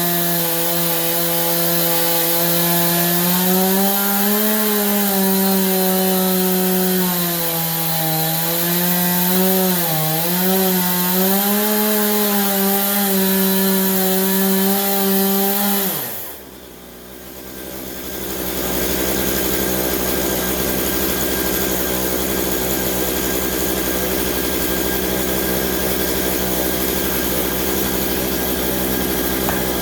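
Stihl chainsaw on an Alaskan sawmill running at high revs while ripping along a pine log, its pitch wavering as the load on the chain changes. About halfway through the pitch drops sharply and the sound briefly falls away, then a steadier, noisier run of the saw in the cut takes over.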